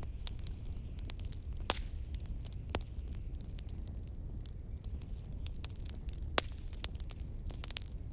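Wood fire crackling, with irregular sharp pops: a few louder single ones and a quick cluster near the end. Under it runs a low, steady rumble of blizzard wind.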